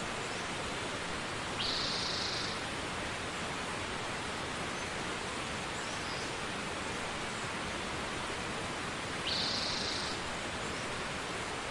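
Steady rushing hiss of falling water, with two short high-pitched calls, each under a second, about seven seconds apart.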